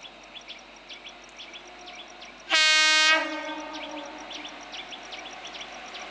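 Indian Railways locomotive horn giving one short, loud blast about two and a half seconds in, lasting about half a second.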